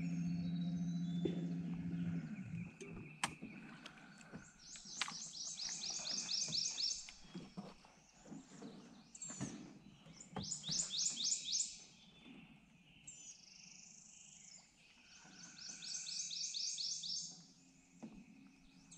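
A songbird singing three quick trills of high, rapidly repeated notes, a few seconds apart, with fainter bird calls between. A low steady hum fades out about two seconds in.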